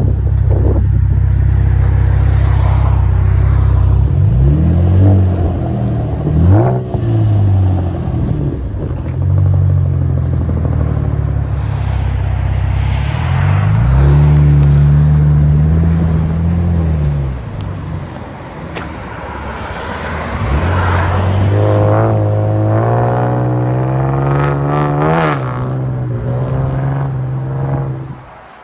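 Chevy Camaro's 3.6-litre V6 through a Rev 9 exhaust with the resonators cut out, idling and being revved. Two quick blips about five seconds in, a longer rev that rises and falls about halfway, then a slower climbing rev near the end before it drops back.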